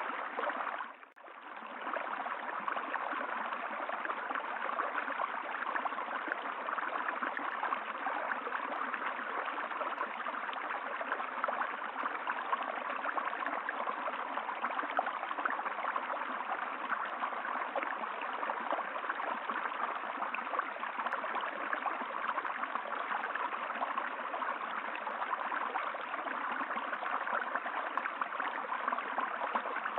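Flowing stream water, a steady even rushing with a brief drop in level about a second in.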